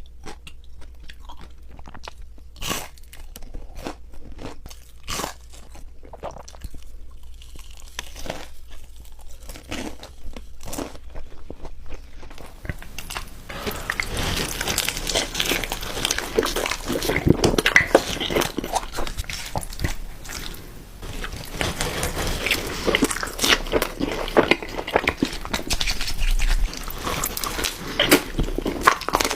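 Close-miked eating: a person biting into crunchy food and chewing with the mouth near the microphone. The first half has scattered separate crunches and mouth clicks; about halfway through the crunching turns dense and louder.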